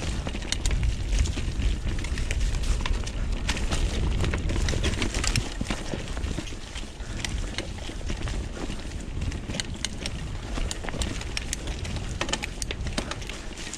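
Mountain bike rolling down a dirt trail: wind rumble on the microphone and tyre noise, with frequent sharp clicks and knocks from the chain, frame and stones.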